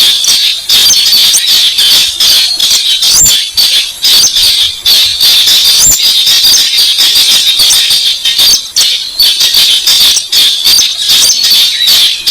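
Recorded call of the weris bird played loud as a lure: a fast, continuous stream of sharp, high ticking notes, dense like a rattle.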